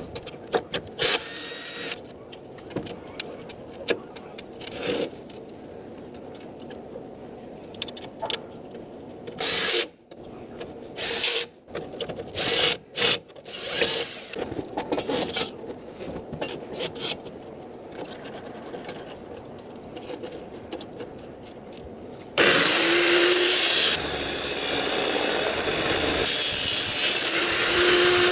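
Scattered clicks and knocks, then about 22 seconds in a 230 mm angle grinder starts abruptly and runs loudly, its pitch sagging and recovering twice.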